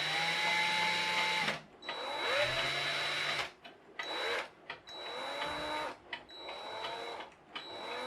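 Electric drill run in several short bursts, each spinning up with a rising whine, as it turns a shaft inside a tight-fitting 3D-printed plastic hub. The friction warms the plastic so the shaft pushes through.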